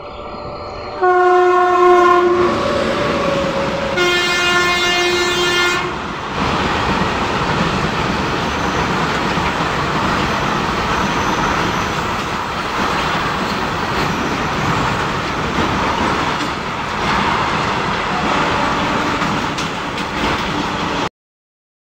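Electric freight locomotive sounding its horn in two long blasts as it approaches, followed by the steady rumble and clickety-clack of loaded open freight wagons rolling past at speed. The sound cuts out abruptly near the end.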